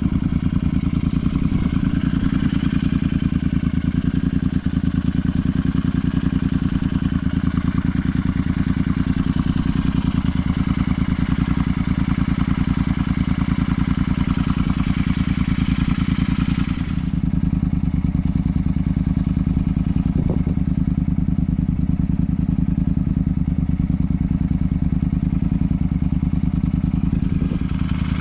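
Royal Enfield Super Meteor 650's parallel-twin engine and exhaust running steadily while riding. The higher rushing noise above it drops away about two-thirds of the way through and comes back near the end.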